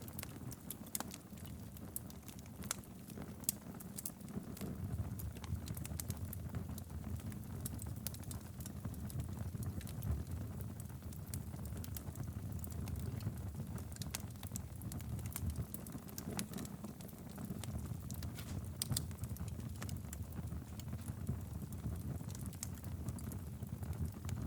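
Wood fire burning steadily in a fireplace: a low rumble of flames with frequent sharp, irregular crackles and pops.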